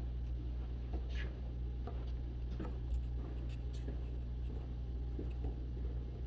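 Footsteps on a trail: scattered light crunches and clicks at an irregular pace, over a steady low rumble.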